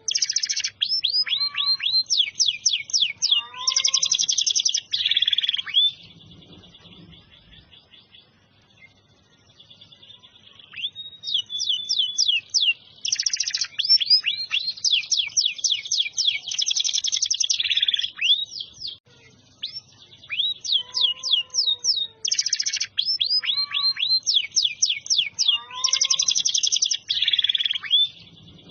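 Domestic canary singing in long, loud phrases of fast repeated sweeping notes and rolling trills. It breaks off for about five seconds after the first phrase, and pauses briefly again before the last.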